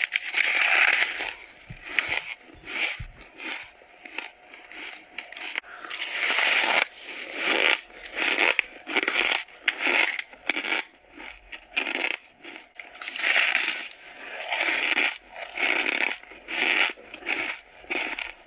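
Frost being bitten and chewed close to the microphone: a long run of squeaky, crispy crunches, roughly one a second, some drawn out into longer grinding chews.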